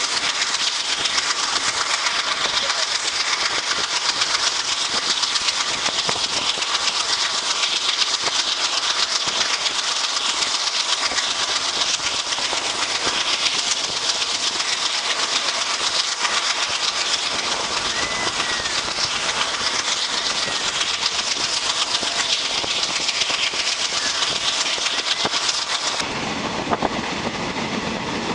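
Passenger train running along the track, heard from an open coach doorway: a steady rushing noise of wheels on rails and air. Near the end the sound changes abruptly to a fuller, lower running noise.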